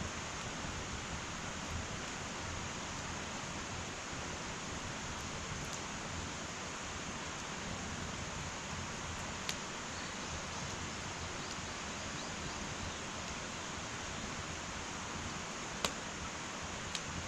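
Wood fire burning in an irori hearth: a steady hiss with a few sharp crackling pops from the burning wood, the loudest two about halfway through and near the end.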